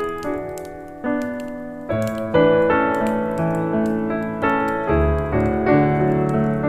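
Slow jazz piano playing soft chords and single notes, each struck and left to ring out, with faint fire crackles in the background.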